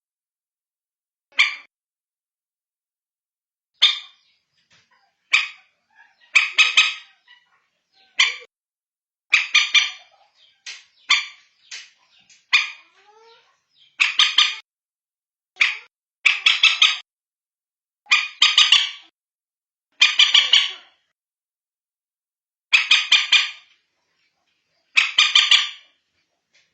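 Common moorhen calls, a recorded lure call: short, sharp notes, single at first and then in quick runs of three or four, repeating every couple of seconds.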